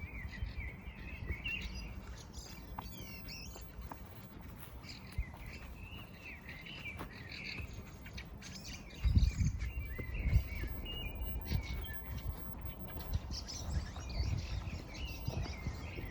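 Several songbirds singing and chirping continuously, with low rumbling underneath and a few loud low thuds about halfway through.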